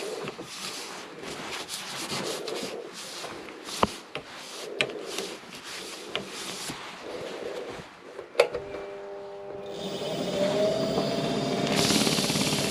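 Rubbing and handling noises with a few sharp clicks, then a loud click about eight seconds in as the wood lathe is switched on. Its motor whine rises and settles into a steady run, growing louder near the end.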